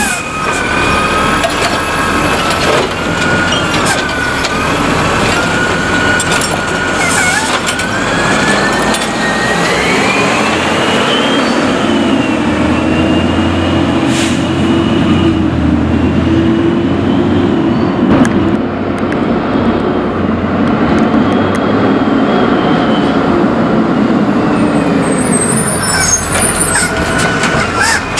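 Curbtender recycling refuse truck working: its engine speeds up about ten seconds in and holds there for about fifteen seconds with a whine over it, as when the engine drives the truck's hydraulics, then drops back near the end. A few sharp knocks sound along the way.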